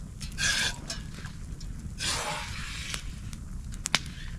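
Campfire crackling with scattered small pops, under two short rustling noises about half a second and two seconds in, and one sharp snap just before the end.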